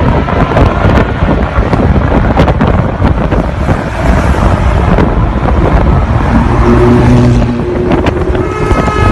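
Road traffic with car engines running, heavy wind buffeting the microphone. A steady low tone sounds for about a second near the end.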